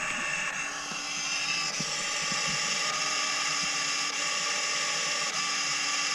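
The electric actuator motor in a 2017 Audi Q7 2.0 TFSI's thermostat assembly, whirring steadily as it drives back and forth. It is trying to reach its set position and can't: the sign of a failing thermostat, which goes with code P2681 for the coolant bypass valve.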